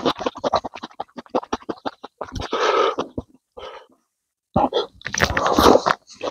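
Close-miked eating: wet chewing and lip-smacking of rice and rabbit meat in rapid little clicks, breaking off briefly a little past the middle before picking up again.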